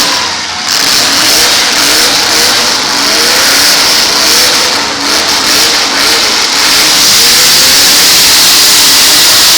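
Several full-size demolition derby cars' engines revving hard at once, a jumble of short overlapping rises in pitch, as the heat gets under way.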